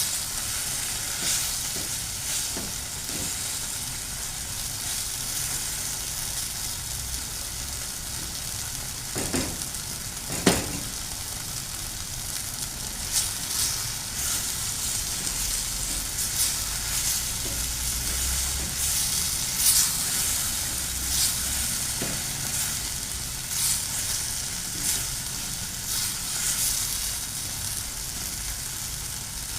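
Mushrooms and corned beef sizzling steadily in a frying pan, stirred with a utensil every second or two, with a couple of louder knocks against the pan about ten seconds in.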